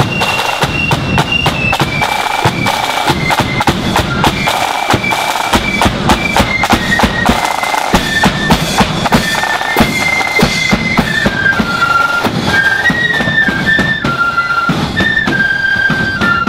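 Marching flute band playing: flutes carry a high, stepping melody in unison over a steady beat of snare and bass drums.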